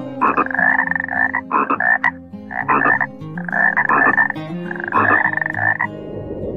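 A frog croaking five times in a row. Each croak is a rattling series of quick pulses, and the longer ones last about a second.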